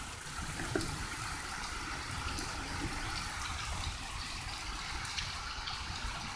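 Steady rain falling and water trickling, with a low steady rumble underneath and a few faint drip-like ticks.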